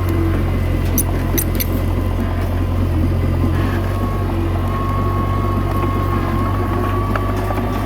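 Komatsu D21A bulldozer's diesel engine running steadily under work, with a few faint clicks about a second in.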